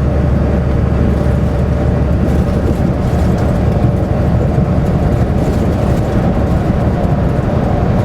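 Semi truck driving, heard from inside the cab: a steady low rumble of the diesel engine and road noise.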